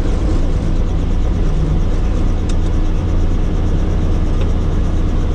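Steady helicopter engine and rotor noise, heavy in the low end and even in level throughout.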